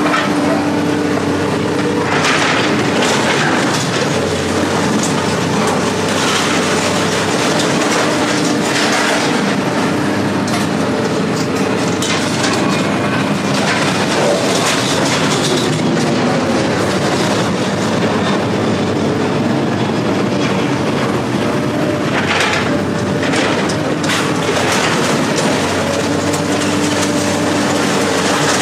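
An engine running steadily under heavy rattling, with a few louder knocks scattered through.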